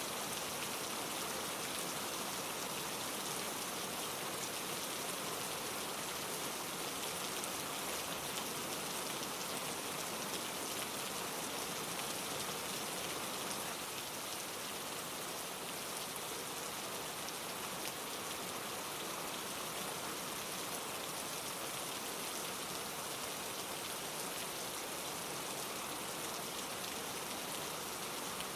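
Steady rain falling on leaves, an even patter of many fine drop hits with no pauses; it drops slightly in level about halfway through.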